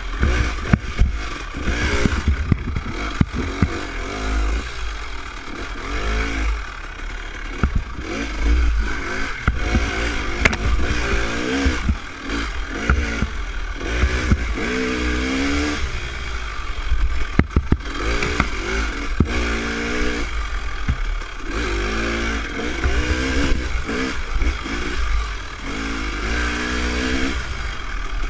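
Dirt bike engine revving up and falling back again and again, over a steady low rumble, with scattered clattering knocks.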